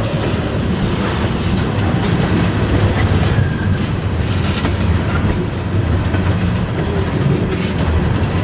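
Freight train rolling by, its wheels clattering over rail joints above a steady low rumble.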